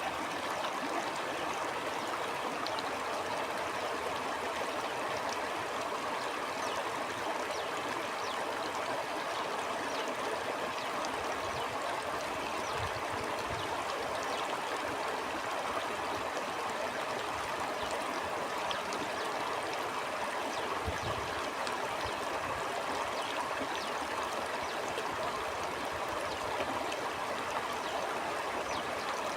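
Stream water flowing and babbling steadily over stones, an even rushing sound with faint low rumbles about halfway and two-thirds of the way through.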